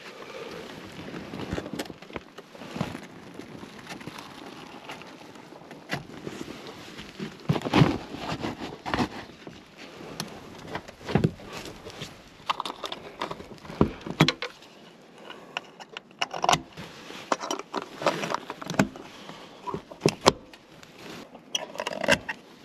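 Irregular knocks, clanks and rattles of camping gear being handled and packed up, some sharp and loud, with scattered quieter clicks in between.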